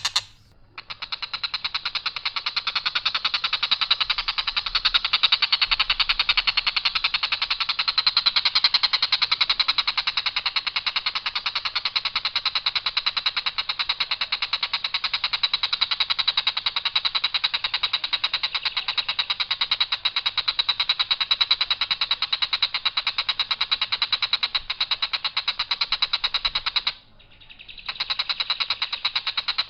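Tengkek buto kingfisher giving its long, harsh, rapid rattling call on one even pitch. It breaks off briefly near the end, then starts again.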